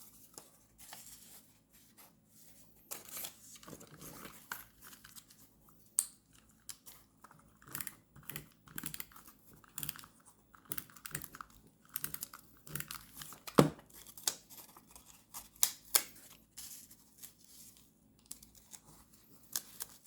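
Paper being handled for journal decorating: short rustles, tears and crinkles with scattered light taps and clicks, and one sharper click about two-thirds of the way through.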